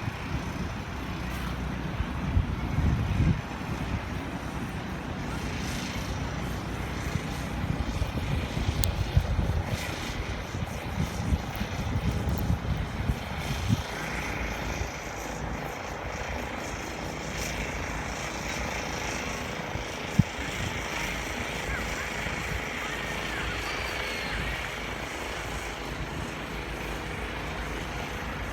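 Steady outdoor city rumble, with irregular low surges in the first half and a single sharp click about twenty seconds in.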